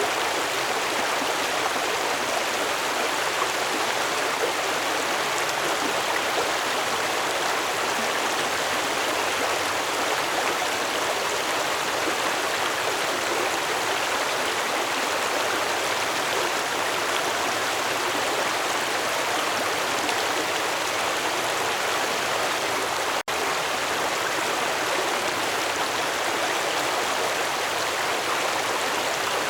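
Stream water flowing in a steady, even rush, with a split-second dropout about three-quarters of the way through.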